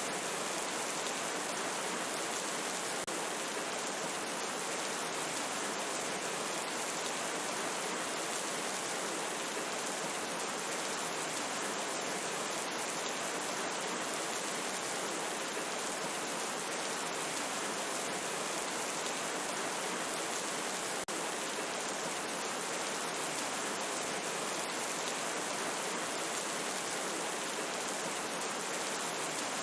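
Steady, even rain falling, a continuous hiss without breaks.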